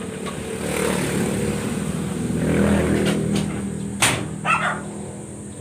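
A motor vehicle's engine running, growing louder to a little past the middle, then fading. A few sharp knocks sound from about three seconds in, and a dog gives one short yelp near the end.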